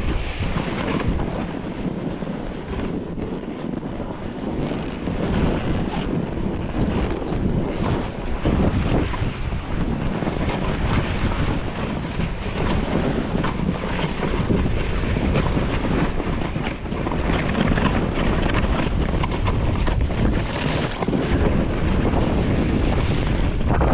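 Wind rushing over the microphone of a snowboarder riding downhill, a loud, steady rush of noise that swells and eases slightly.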